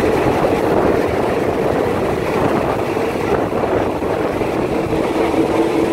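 Passenger train running along the track, heard from an open carriage window: a steady rumble and rush of noise with a constant hum underneath.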